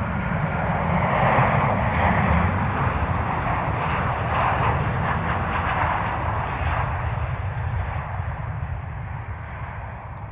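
Airliner flying low overhead on its approach to land: a loud rushing engine noise that peaks in the first couple of seconds and then slowly fades.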